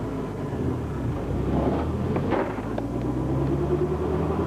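Motorcycle engine running, its pitch climbing during the second half as it revs or pulls away.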